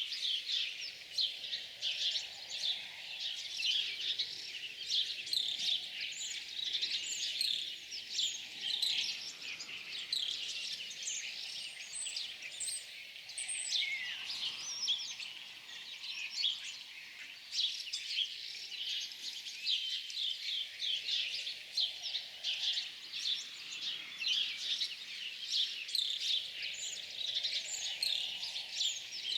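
A chorus of many small songbirds chirping and singing at once: a dense, continuous tangle of short high chirps and trills, over a faint background hiss.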